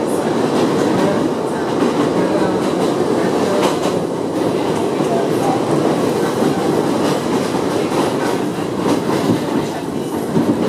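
R62A subway car running at speed, heard from inside the car: a steady rumble of steel wheels on rail with scattered clicks of the wheels passing over rail joints.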